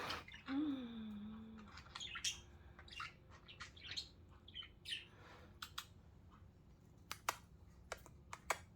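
Pet budgerigars chirping, with short sharp chirps scattered throughout and a quicker run of them near the end. About half a second in there is a brief low sliding tone that falls in pitch.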